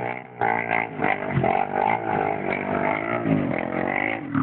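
Small motorbike engine being ridden, revving up and down so its pitch rises and falls over and over, with a brief drop in the revs just after the start.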